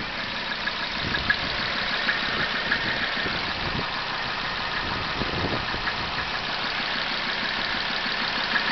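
Turbo diesel engine of a Mazda B2600i pickup idling steadily, chugging away on its first run after a new head gasket.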